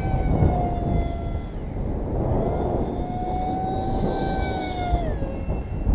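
Radio-controlled model airplane's motor and propeller whining in flight, the pitch dipping about a second in, coming back, then falling away near the end, over low wind rumble on the microphone.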